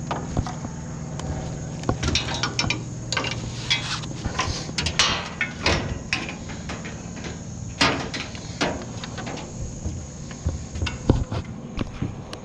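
Irregular knocks, clicks and clatters of hard objects being handled and set down, a dozen or more scattered sharp hits.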